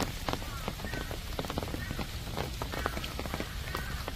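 Rain falling, with drops striking close by in quick, irregular sharp ticks over a steady low rumble. A few short high chirps sound now and then.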